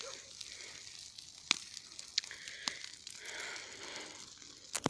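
Wood campfire crackling, with a few sharp pops, the loudest pair near the end.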